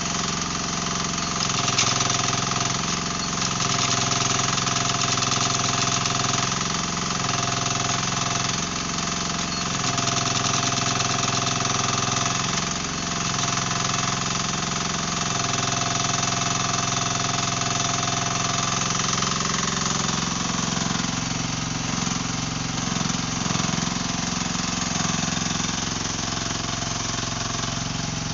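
Dasen 15 mini excavator's engine running steadily, its low note swelling and dipping every second or two as the hydraulics take load. About twenty seconds in the engine's low tones shift.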